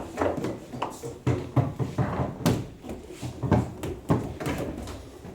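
Table football being played: the ball struck by the figures and the rods clacking against the table, a series of sharp knocks at irregular intervals.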